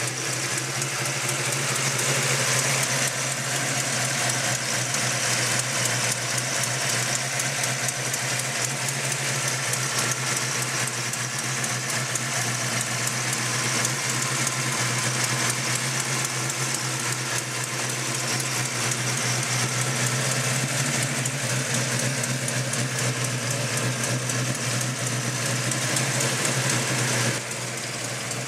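402 cubic-inch crate V8 idling steadily, with the hood open. It turns a little quieter about a second before the end.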